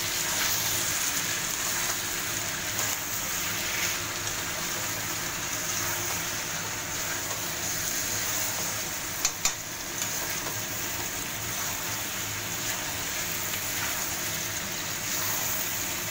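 Spice-coated chicken pieces sizzling steadily in hot oil in a wok while a spatula stirs and turns them: the kosha stage, where the meat is fried down with its ground masala. About nine seconds in there are two quick, sharp knocks.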